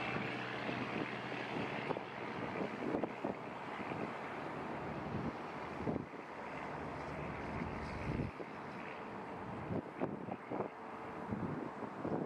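Outdoor wind buffeting the microphone, a steady rumbling hiss broken by many short gusty thumps.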